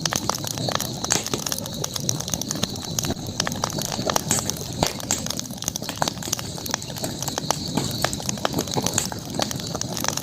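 Wood campfire crackling, with irregular sharp pops and snaps over a steady background hiss and a thin high-pitched tone.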